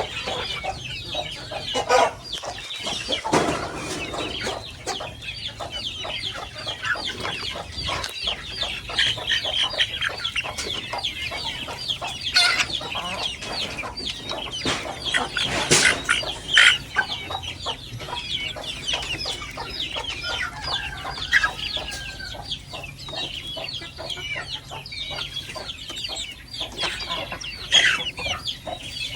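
A flock of free-range village chickens (ayam kampung) clucking and calling continuously, many birds at once, with a few louder calls standing out now and then.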